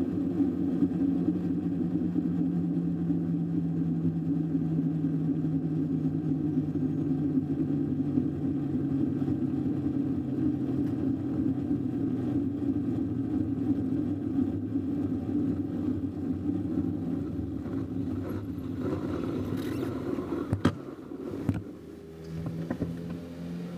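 Superbike engine running at low, fairly steady revs, its pitch sagging slightly. About twenty seconds in there is a sharp knock; after it the sound drops and a quieter, different steady tone takes over.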